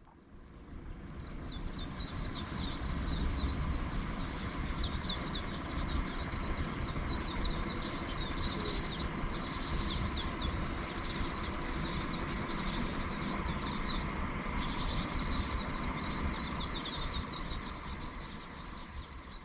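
A flock of small birds chirping continuously in many quick, high, falling notes over a steady low rumble. It fades in at the start and fades down near the end.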